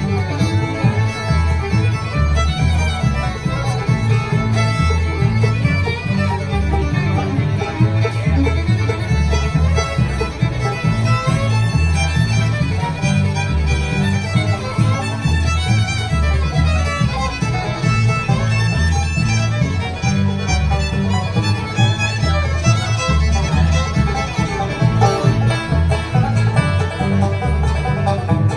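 Bluegrass band playing a fast instrumental with fiddle, banjo and guitar over a steady bass line.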